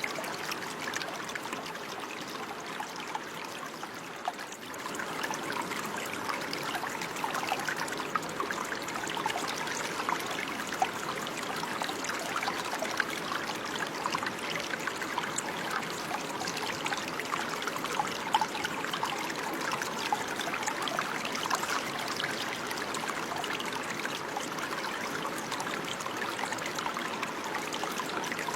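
Running water trickling and babbling steadily over stones, like a small stream, with a constant patter of tiny splashes.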